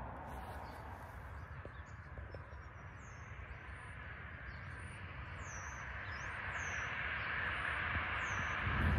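Outdoor ambience: a steady low rumble with a hiss that swells toward the end, and a small bird chirping several times in short, high, falling notes through the second half.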